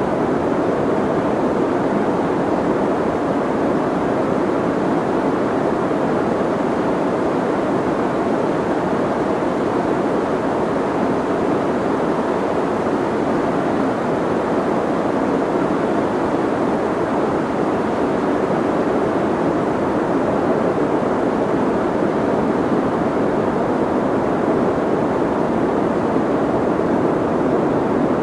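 Soft white noise: an even, unchanging hiss with its weight in the low middle and the treble rolled off, so it sounds muffled rather than bright.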